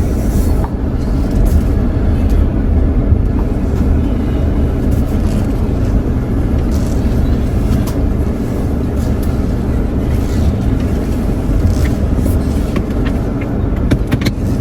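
Steady low rumble of a car's engine and tyres, heard from inside the cabin while driving slowly, with a few faint ticks near the end.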